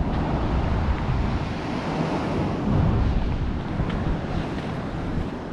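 Wind buffeting the microphone over the wash of ocean surf, swelling a little around three seconds in.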